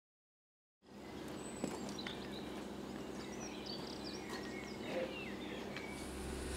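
After about a second of silence, birds chirping over a faint steady hum.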